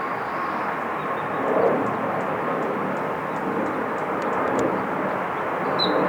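Jet airliner's engines heard at an airport runway, a steady rushing noise that swells briefly about a second and a half in and again near the end.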